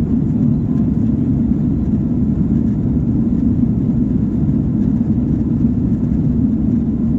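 Airliner's jet engines and airflow as a steady low rumble, without rising or falling.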